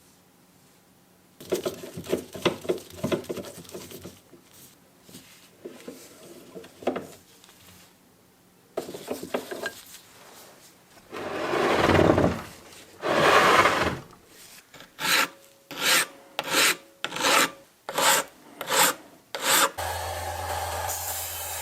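Hand filing or rubbing strokes on a part: scattered scraping at first, then two long strokes, then a run of about eight evenly spaced strokes. Near the end a motor starts and runs steadily with a low hum.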